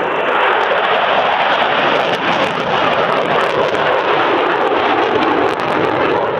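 Twin Eurojet EJ200 turbofans of an RAF Eurofighter Typhoon FGR4 fighter, a loud steady jet noise.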